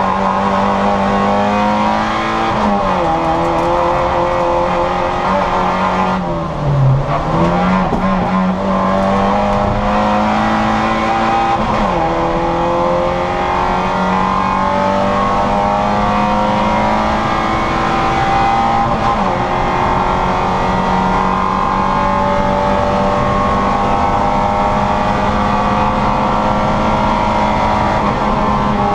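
Citroën Saxo VTR's four-cylinder engine heard from inside the car at race speed, its note climbing slowly under full throttle. The pitch dips sharply at each gear change, several times.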